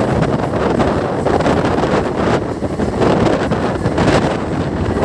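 Wind rushing and buffeting over the microphone at the open door of a moving Indian Railways express train, over the steady running noise of the coach on the track.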